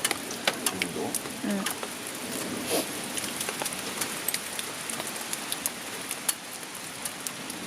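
Steady rain falling on a DD Tarp XL Superlight, with many scattered sharp drops tapping on it.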